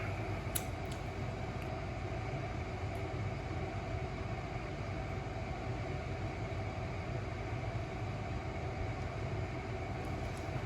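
Steady low mechanical hum, like a fan or other running machine, with a faint click about half a second in.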